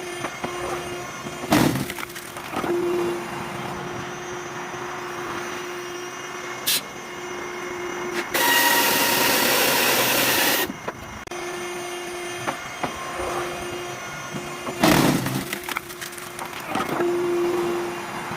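Firewood-splitting machine running with a steady hum while wood cracks and splits loudly twice, once early and once near the end. A loud hissing noise lasts about two seconds in the middle.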